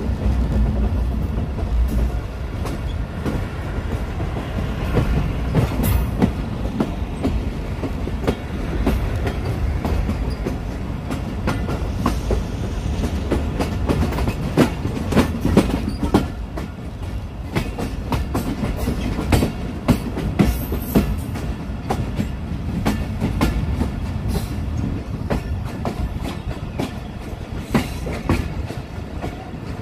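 A Pakistan Railways passenger train running along the track, heard from its own carriage: a steady rumble of the wheels with irregular clicking and clacking over the rail joints.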